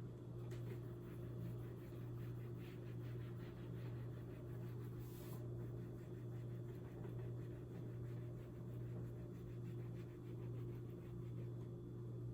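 Faint scratching of hand-writing strokes over a steady low electrical hum.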